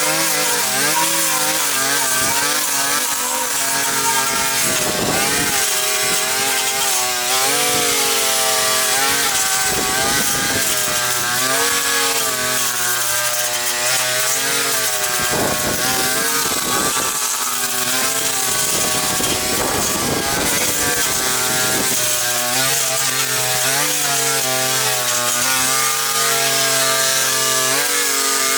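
Small engine of a handheld power tool running continuously, its revs rising and falling repeatedly, over a steady hiss of cutting.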